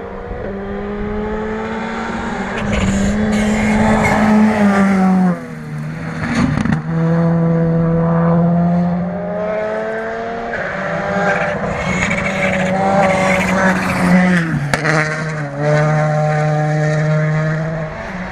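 Rally car at full speed on a gravel stage, its turbocharged engine revving hard. The engine note climbs, drops sharply about five seconds in and again near the end, with a few sharp cracks from the exhaust between.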